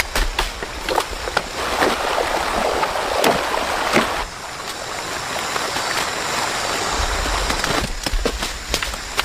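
Fast-flowing flood water rushing and splashing, loudest for a few seconds near the start, with scattered sharp splashes or drips throughout.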